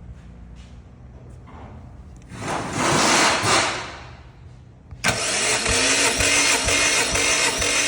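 A loud burst of hissing air for about a second and a half, then, about five seconds in, the Subaru WRX EJ205 turbocharged 2.0-litre flat-four is spun on its starter without firing. It makes an even, rhythmic chugging as each cylinder compresses, as is done for a compression test.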